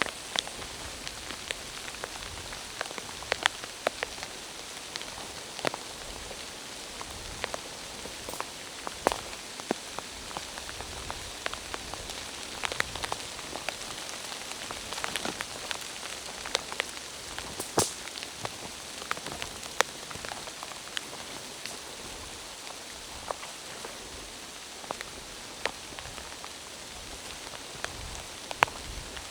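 Rain falling in a forest: a steady hiss of rain with many heavy single drops ticking sharply and irregularly close by.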